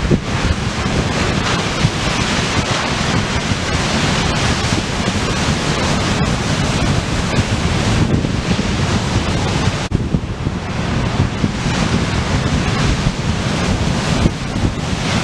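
Storm surf pounding and washing on the shore, with strong wind gusting and buffeting the microphone in a loud, rumbling low roar.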